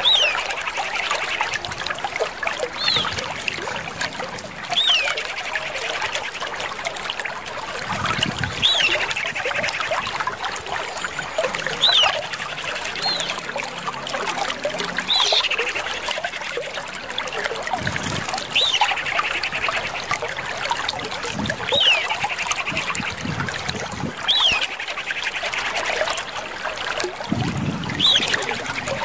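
Common iora calls: a sharp whistled note that drops in pitch, repeated about every two seconds, each followed by a fast rattling chatter. Behind it runs a steady trickle of water.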